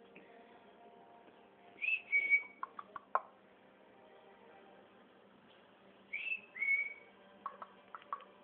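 Cockatiel whistling twice, each call a quick upward slide into a short held note, with a few sharp clicks after each call.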